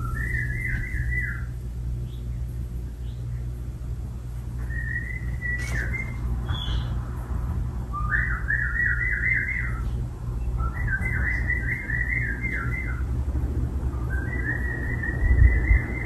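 A bird singing five short warbling phrases, spaced a few seconds apart, over the steady low hum of a Casablanca Nouvelle ceiling fan running.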